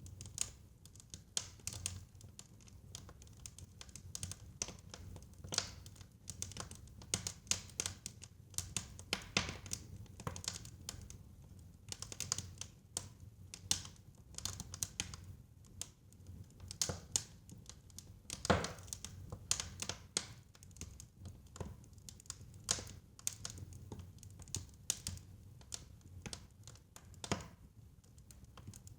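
Fireplace fire crackling: irregular sharp pops and snaps over a soft low rumble, with one louder pop about two-thirds of the way through.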